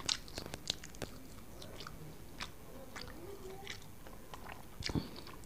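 A person chewing a mouthful of rice with wet smacking clicks at irregular intervals. Several come close together in the first second, and a sharp one comes near the end.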